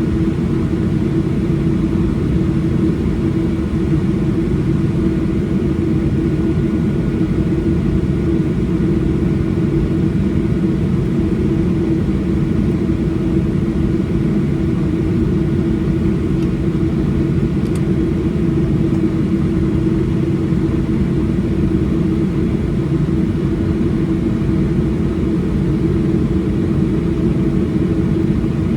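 Steady, loud drone of a Boeing 737-800's CFM56 jet engines and rushing air, heard inside the passenger cabin, with a steady hum riding on the rumble.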